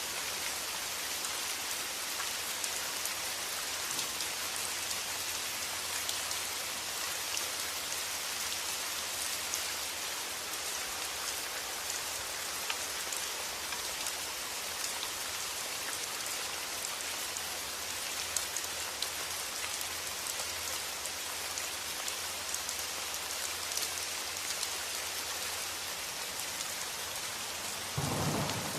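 Steady rain falling, with fine ticks of individual drops striking a surface. Near the end a low rumble of thunder starts.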